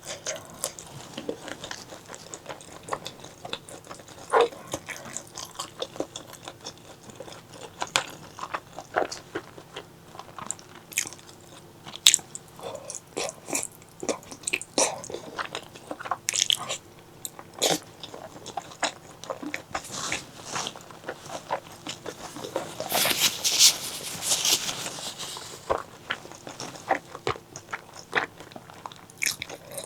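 Close-miked eating: biting and chewing on spicy pork leg curry, with irregular wet clicks and smacks. A louder, denser stretch of chewing noise comes a little after the middle.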